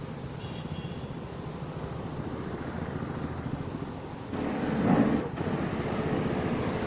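A motor running steadily with a fast low pulsing, swelling into a louder, hissier surge about four seconds in, then settling with a faint steady hum.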